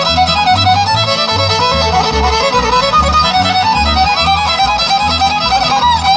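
Bluegrass band playing an instrumental break led by a fiddle running a quick melody over an upright bass keeping a steady two-beat pulse.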